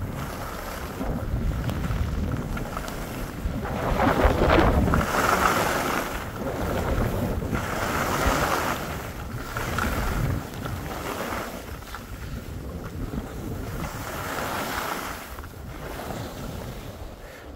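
Wind buffeting the microphone in gusts, a rushing noise that swells and fades every second or two.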